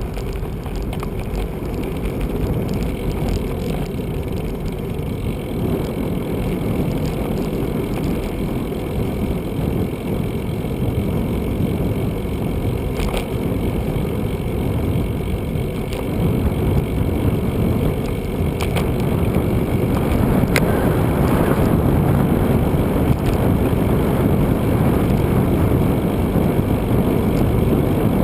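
Steady street and traffic rumble heard from a moving bicycle, with a few brief ticks. It grows louder about two-thirds of the way through.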